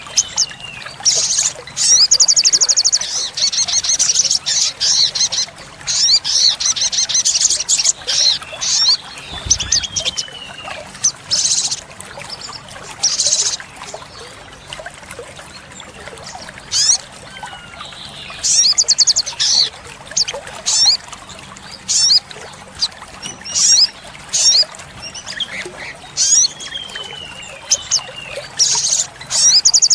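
Olive-backed sunbird singing: a busy run of sharp high chirps and fast rattling trills, with a few thin whistles sliding downward in pitch.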